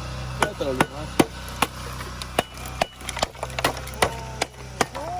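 Repeated sharp, irregular knocks as the shell of a roasted turtle is struck to crack it open.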